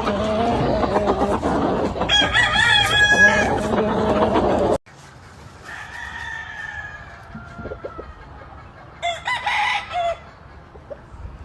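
Gamefowl roosters crowing, with chickens clucking. The sound drops off abruptly about five seconds in; after that a fainter crow follows, then a short loud call near the end.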